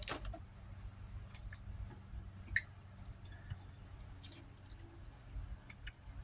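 Quiet eating sounds: scattered small wet mouth clicks and smacks of chewing, with one sharper click about two and a half seconds in, over a low steady hum.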